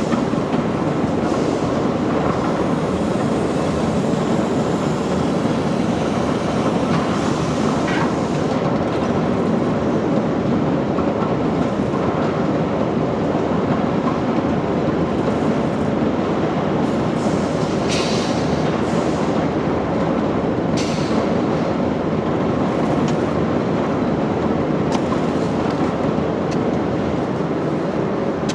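Heavy machinery running with a steady mechanical rattle, with a few sharp knocks, one about eight seconds in and two more later on.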